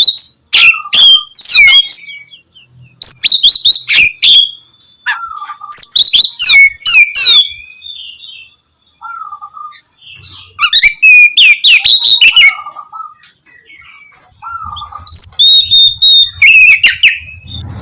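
Oriental magpie-robin (kacer) singing loud bursts of fast, varied whistles and harsher rasping notes, with short pauses between the phrases.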